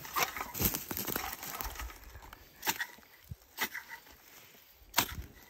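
Ferro rod scraped with the back of a knife blade to throw sparks into tinder in a tin-can stove: several short, sharp scrapes spaced a second or so apart, the last one loudest.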